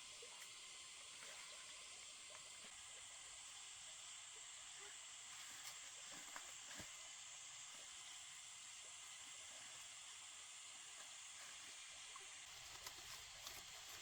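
Near silence: a faint steady high hiss of outdoor ambience with a few soft clicks.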